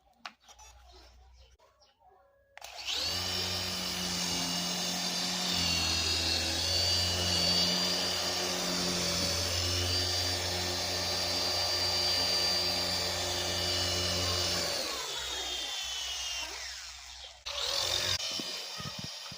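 A small electric motor in a battery-powered RC toy whines at speed with a steady hum under it. It starts suddenly a few seconds in and winds down with falling pitch near the end. It then spins up again briefly just before the end.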